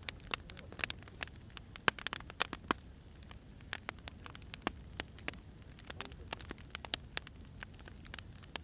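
Burning firewood crackling, with irregular sharp pops and snaps over a low steady rumble of the flames.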